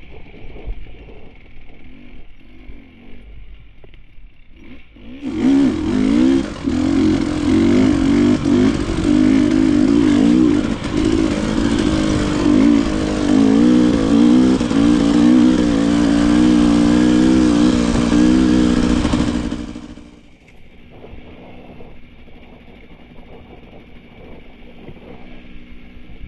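Enduro motorcycle engine running at low throttle, then revved hard for about fourteen seconds, its pitch rising and falling, before dropping back to a low throttle near the end.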